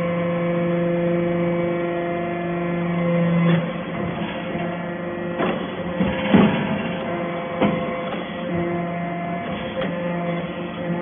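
Hydraulic metal-chip baler running: a steady motor-and-pump hum that turns rougher for a few seconds from about a third of the way in, with several knocks, before settling back to the steady hum.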